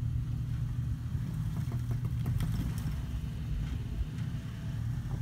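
Jeep engine running at low revs as it crawls over rocks, a steady low rumble, with a few faint clicks about two seconds in.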